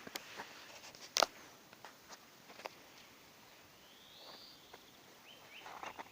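Footsteps of a person walking in the forest, a few crunching steps, the loudest just after one second in, then the steps thin out. A bird gives one rising whistle about four seconds in and a few short high notes near the end.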